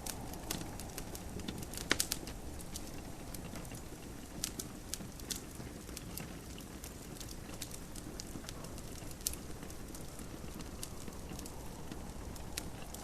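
Wood fire in a fireplace crackling, with irregular sharp pops and snaps, two of the loudest close together about two seconds in. Under it runs a steady soft hiss of gentle rain.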